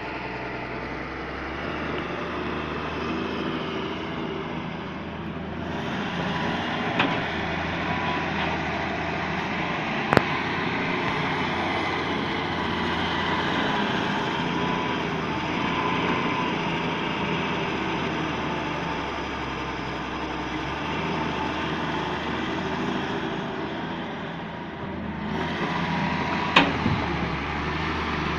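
Hitachi EX200 hydraulic excavator's diesel engine running steadily at work, with three sharp knocks standing out, the loudest about ten seconds in.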